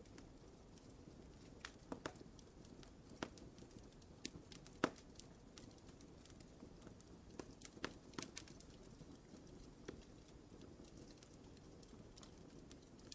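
Wood fire crackling in a fireplace: irregular sharp pops and snaps over a low, steady rumble of burning, the loudest pop about five seconds in.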